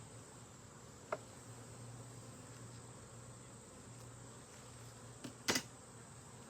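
Honeybees buzzing steadily around an open hive. A sharp click about a second in and a louder double knock near the end stand out above the hum.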